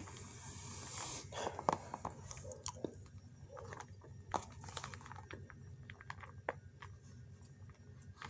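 Close-up chewing and mouth sounds from someone eating, with scattered small clicks and a brief rustle near the start as the black plastic takeout container is handled.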